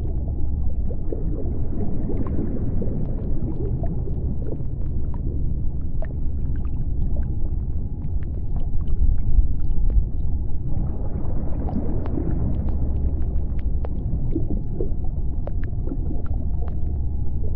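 Underwater sea-floor ambience: a steady deep rumble with scattered sharp clicks and ticks, swelling slowly about two seconds in and again near the middle.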